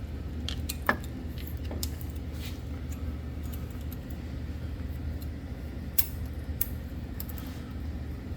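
Scattered light metallic clicks and clinks of small steel brake pad clips being handled and pressed into a caliper bracket, over a steady low hum.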